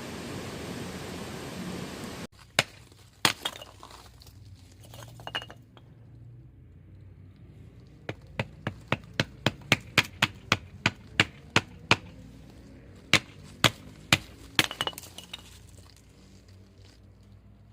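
A steady hiss that cuts off suddenly about two seconds in. It is followed by a series of sharp knocks and taps, a few with a brief metallic ring, including a regular run of about two to three taps a second near the middle.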